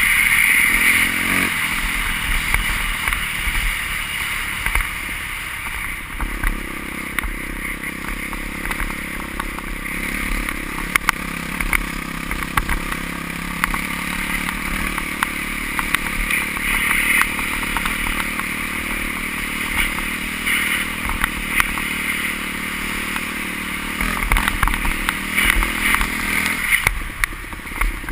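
Motocross motorcycle engines running, with a steady engine drone from about six seconds in until shortly before the end, and scattered clicks over it.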